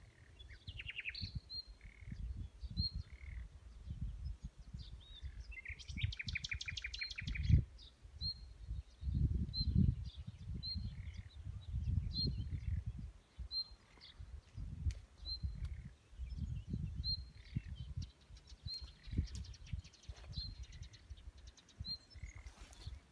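Songbirds calling: a short high note repeated about once a second, with a rapid trill about six seconds in. Irregular gusts of wind rumble on the microphone throughout.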